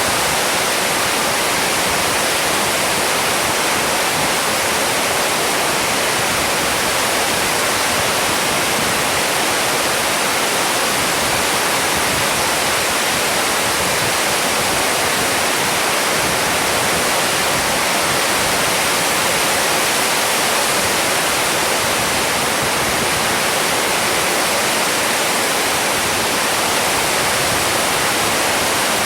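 Rain pouring down steadily in a storm, a dense, even hiss with no breaks or changes.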